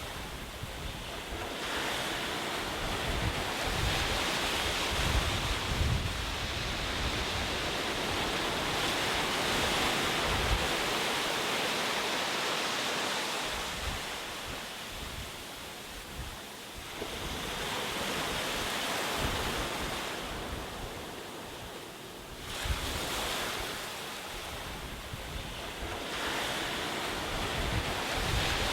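Ocean waves breaking and washing up the shore, the surf rising and falling in several long swells. Wind rumbles on the microphone.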